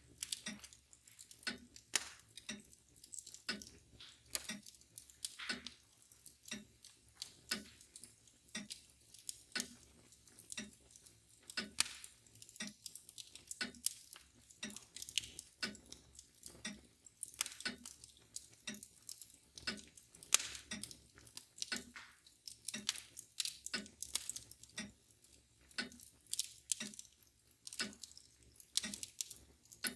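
A wood fire crackling with irregular sharp pops, over the steady, even ticking of a mantel clock.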